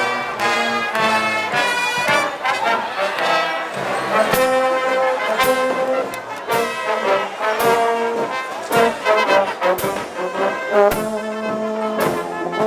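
Brass band playing a tune, with held trombone and trumpet notes, cut through by several sharp cracks.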